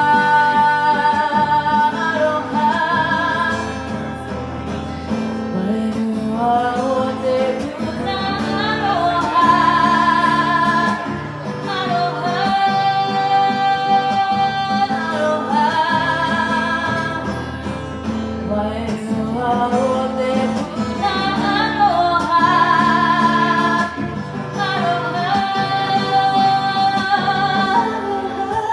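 A woman singing a slow song with long held notes, accompanied by guitar.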